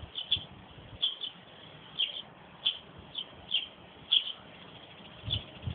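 A small bird chirping over and over in short, sharp, high notes, about two a second, with a couple of low thumps near the end.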